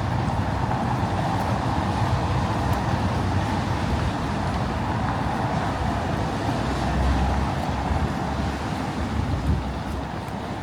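City street traffic: a steady wash of road noise, with a low rumble swelling about seven seconds in as a vehicle passes close by.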